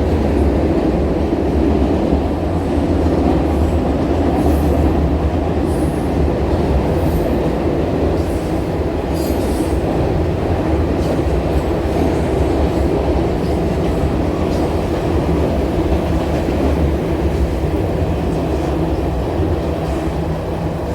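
A train rolling past at close range, a loud steady rumble of wheels on rail, with faint high wheel squeaks now and then in the first half.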